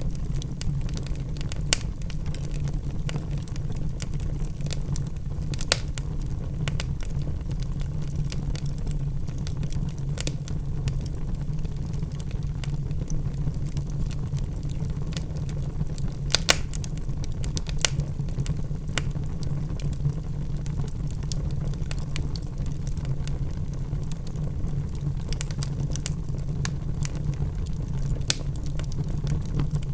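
Wood logs burning in a fireplace: a steady low rumble of the fire with irregular crackles and sharp pops, a few louder pops standing out.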